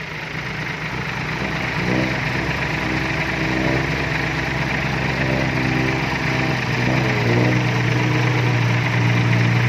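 Engine running and growing louder, its pitch rising twice, about 2 seconds in and again about 7 seconds in, then holding steady.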